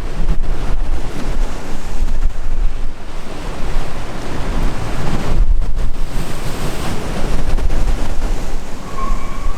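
Sea waves washing and breaking, with strong wind buffeting the microphone in uneven gusts.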